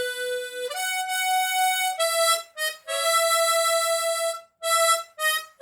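Diatonic harmonica in A playing a slow phrase of single held notes, about seven of them with short breaks between. This is the passage where one note is raised a half step by switching quickly to an A-sharp harmonica stacked above the A.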